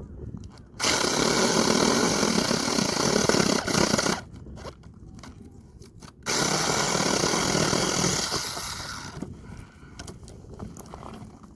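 Small electric chainsaw running in two bursts of about three seconds each, cutting through branches, with a short pause between cuts.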